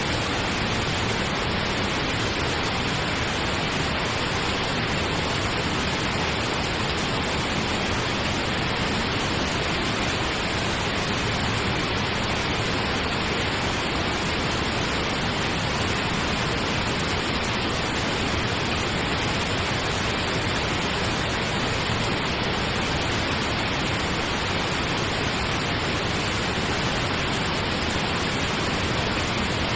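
Steady pink noise: an even, unchanging hiss that never varies.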